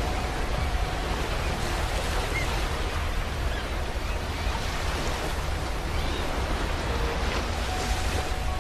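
Ocean surf washing steadily onto a beach, an even rushing wash with no single wave standing out.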